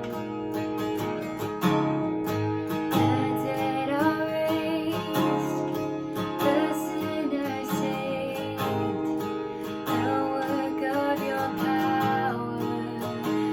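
Music led by a strummed acoustic guitar, playing steadily with other pitched parts over it.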